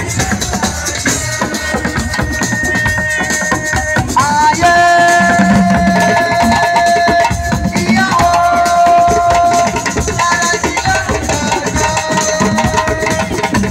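Senegalese assiko band music: dense, fast hand-drum percussion under long held melodic notes.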